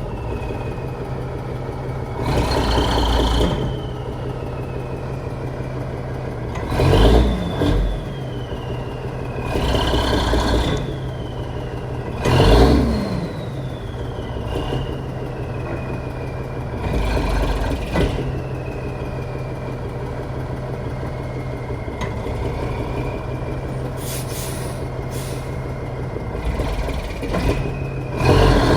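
Truck engine repeatedly revving hard in surges about every few seconds, each followed by a high turbo-like whine falling away, over a steady idle. The truck is stuck in ruts with its brakes not fully released.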